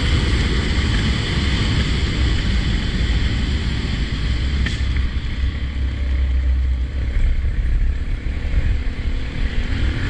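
Motorcycle underway: a steady engine and wind rumble, with one short click about halfway through.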